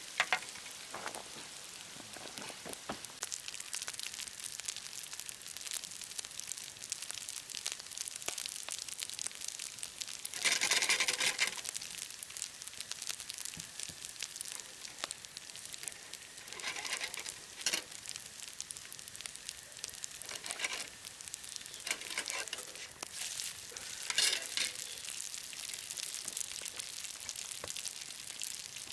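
Food frying in a hot pan: a steady crackling sizzle, with several louder surges of sizzle about a second long, the biggest about eleven seconds in.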